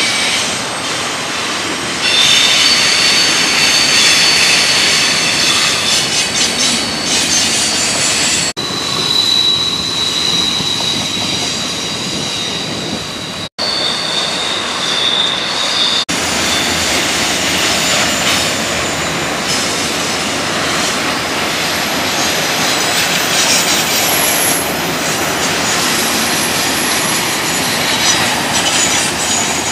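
Double-stack intermodal freight train rolling past on a curve: the rumble of the cars with high, steady wheel squeal on top. The sound breaks off abruptly a few times.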